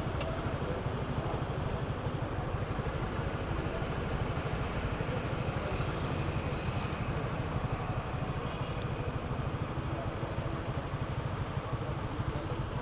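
Honda CG Fan 125's single-cylinder four-stroke engine idling steadily with a low, even pulse.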